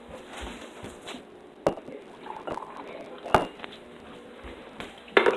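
Kitchen handling noises: a few separate sharp knocks and clinks of dishes and cups being handled, the loudest near the end.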